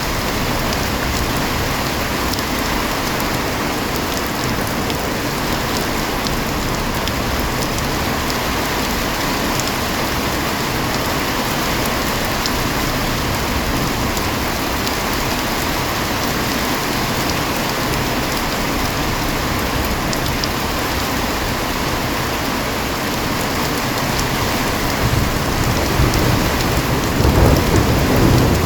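Heavy rain pouring steadily, with a low rumble of thunder building near the end.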